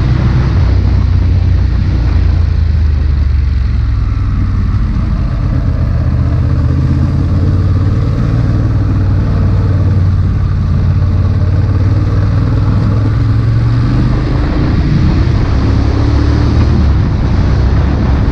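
Ducati Monster 821's liquid-cooled 821cc L-twin engine running steadily while the bike is ridden, rising a little in pitch near the end.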